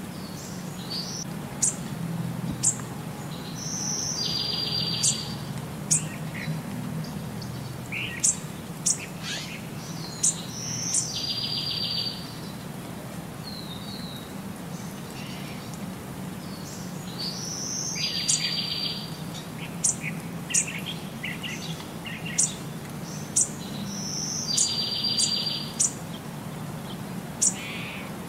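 Songbirds chirping: sharp high chirps and a short buzzy trill, the same phrase coming round about every six and a half seconds, over a steady low hum.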